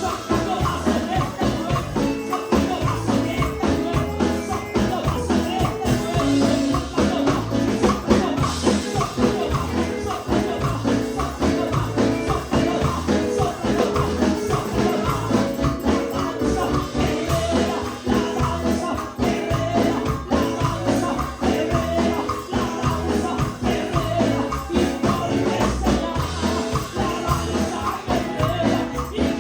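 Upbeat Spanish-language Pentecostal worship chorus music with a steady beat, tambourine shaking along and singing.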